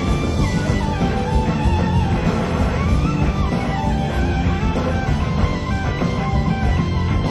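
Live rock band playing an instrumental passage: an electric slide guitar solos in sliding, gliding notes over the full band's drums, bass and keys.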